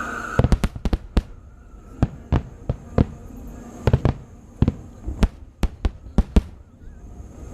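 Aerial fireworks bursting in an irregular rapid series of sharp bangs, about twenty in all, clustered in quick runs of two or three over about six seconds.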